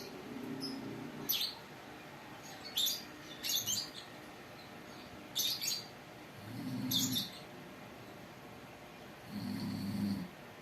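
Pet lovebird giving a series of short, sharp, high chirps, singly and in quick pairs. Three times, a low rough sound is heard, near the start, in the middle and near the end.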